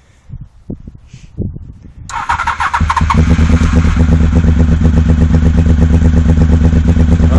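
Honda VFR750's V4 engine cold-started after five months standing: a few low knocks, then the starter cranks about two seconds in and the engine catches within a second, settling into a steady, even idle.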